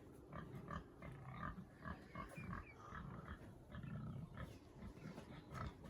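Pigs grunting faintly: a run of short, irregular grunts.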